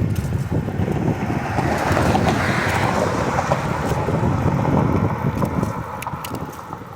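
Road traffic with a vehicle going past: its noise swells a couple of seconds in and fades away near the end, over a steady rumble of road and wind noise.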